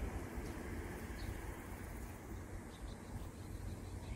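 A few faint, high bird chirps over a steady low rumble.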